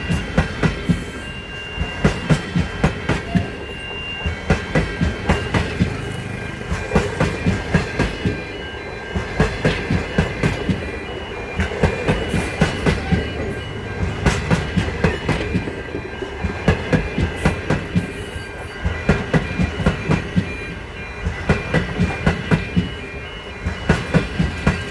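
Train running past, its wheels clacking over rail joints in repeated clusters of sharp clicks every second or two as each bogie crosses, over a low rumble and a steady high whine.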